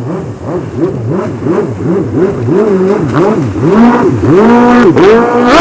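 Racing jet ski engine revving, its pitch swinging up and down several times in quick succession before holding a steady high pitch and growing louder near the end as it runs fast.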